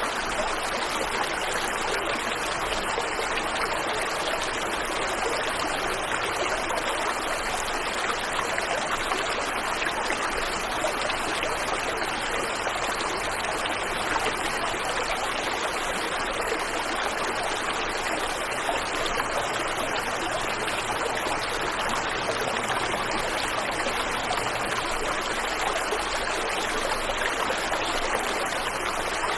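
Waterfall and river water flowing: a steady, unbroken wash of falling and running water.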